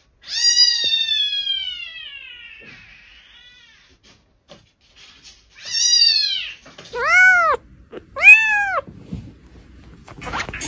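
Domestic cat meowing four times: a long call near the start that falls in pitch and fades, then a shorter meow about halfway through, and two quick meows that rise and fall in pitch near the end.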